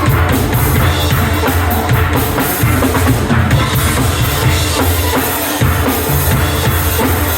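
Steel band playing: steel pans with a drum kit keeping the beat.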